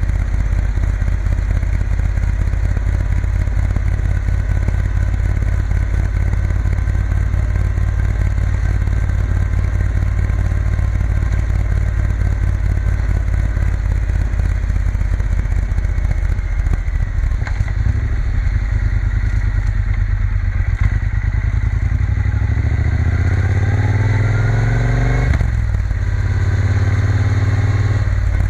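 Triumph Bonneville T120 parallel-twin engine running under way, with heavy wind rush. Near the end the revs climb, drop sharply about 25 seconds in at a gear change, then pull on again.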